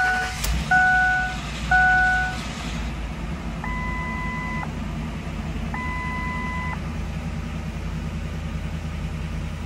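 Ford Explorer engine just started and idling steadily, under a series of dashboard warning chimes: three short beeps in the first two seconds, then two longer, higher beeps about four and six seconds in as the tire-pressure and oil-change warnings come up.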